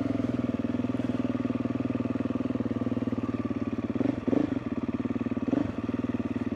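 Motorcycle engine idling steadily, briefly louder twice past the halfway point.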